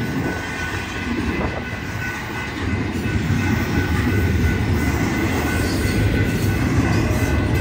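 Double-stack intermodal well cars rolling past at a grade crossing: a steady low rumble and clatter of steel wheels on rail, growing louder about two and a half seconds in. A thin, steady high whine runs through it.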